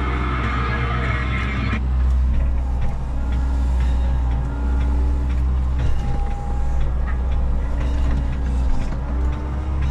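Menzi Muck walking excavator's diesel engine running steadily with a deep rumble, with occasional short knocks from the machine working.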